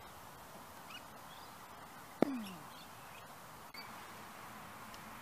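Open-air ambience with faint, scattered bird chirps over a steady hiss. A sharp knock comes a little over two seconds in, followed by a short, falling low sound.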